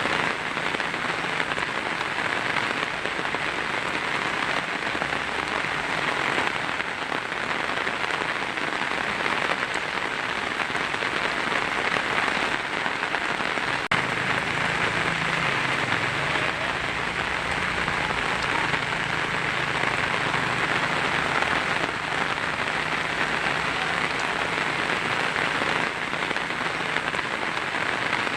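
Heavy rain falling steadily on a tin roof, a dense, even patter.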